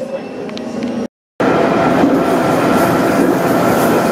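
JR 311 series electric train running under way: a steady rumble of wheels on rail with a thin, high motor whine. The sound cuts out for a moment about a second in, then comes back louder.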